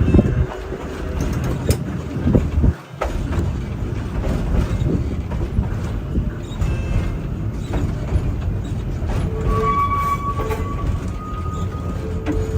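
Chicago Surface Lines streetcar running along the track: a steady low rumble of wheels and traction gear, with scattered clicks of the wheels over rail joints. Steady high tones come in near the end.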